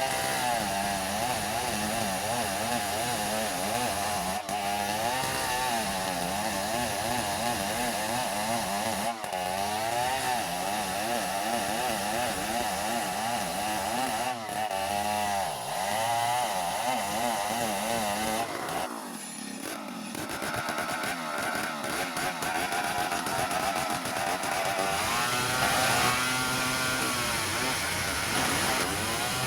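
Engine-driven saw cutting wood into planks, its engine pitch wavering up and down under the load. The sound drops off briefly a little past halfway, then picks up again.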